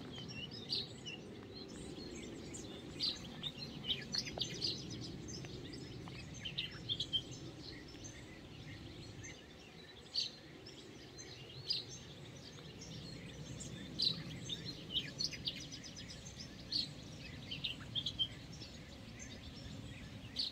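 Small birds chirping, short high calls every second or so, over a steady low rumble of outdoor background noise.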